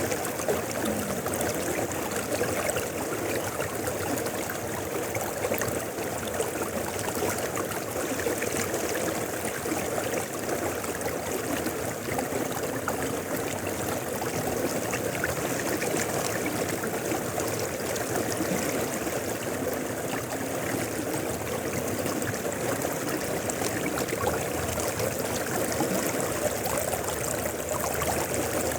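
Mountain river running over rocks: a steady, even rush of flowing water with fine splashing, unchanging throughout.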